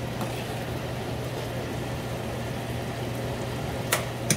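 Corn kernels and onions frying in butter in a pot on the stove, a faint steady sizzle over a constant low hum, with two sharp clicks near the end.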